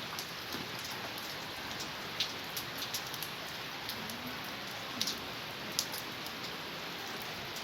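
Heavy rain falling steadily, with scattered sharper drops ticking on a nearby surface every so often.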